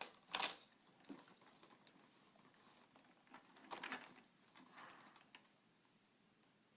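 Faint scattered clicks and rattles of plastic toys on a baby's activity exerciser being handled, with louder clatters about half a second in and again around four seconds in.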